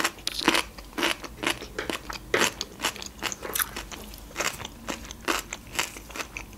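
A person chewing raw cucumber close to the microphone, a crisp wet crunch about twice a second.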